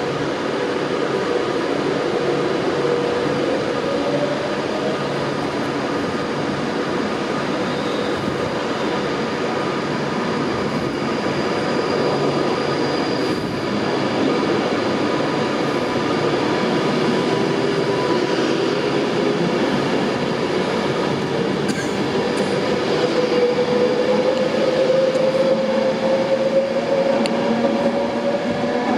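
Train moving through the station: a steady rumble of wheels on rail with a whine, which rises in pitch over the last few seconds.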